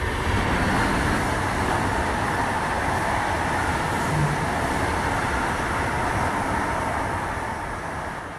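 Double-unit ICE 3 high-speed electric train passing close by: a loud, steady rush of wind and wheel-on-rail noise that starts to fade near the end.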